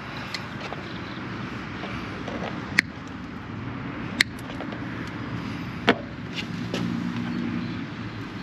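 Steady low hum with three sharp clicks of hand tools or parts being handled, about a second and a half apart.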